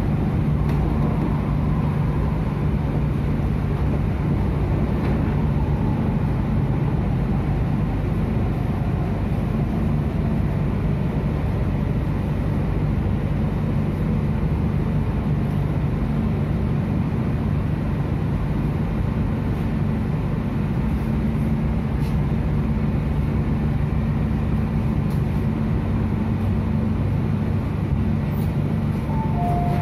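Steady rumble and hum inside a Hong Kong MTR Tung Chung line train as it runs and draws into a station, with a couple of short beeps near the end.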